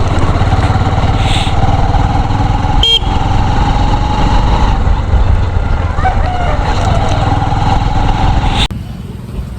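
Motorcycle riding on the road, with engine and wind noise and a steady mid-pitched hum running through it. It is cut off abruptly near the end.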